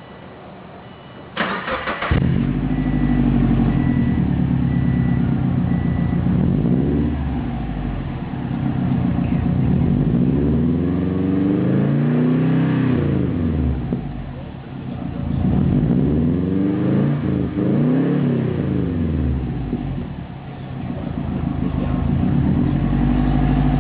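Subaru Forester XT's turbocharged 2.5-litre flat-four starting about a second and a half in, idling, then revved up and back down several times to about 4,000 rpm, heard through a Helix catted downpipe, WBR resonated intermediate pipe and Prodrive axle-back exhaust.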